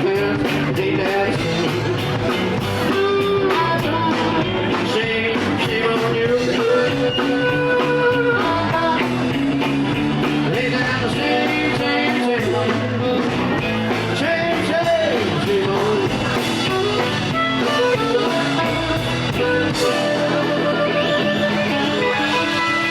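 Live blues band playing an instrumental break of a shuffle: electric guitar over bass and drums with a steady beat, the lead line holding and bending notes.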